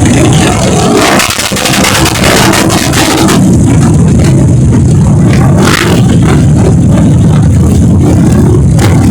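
Trail motorcycle engines revving hard, loud and sustained.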